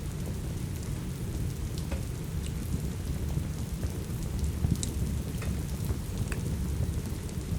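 Steady rain with a deep, even rumble underneath, mixed with the scattered sharp pops and crackles of a wood fire in a fireplace.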